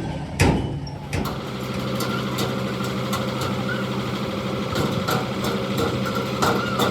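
An engine idling steadily, with a few sharp knocks in the first second and lighter clicks after.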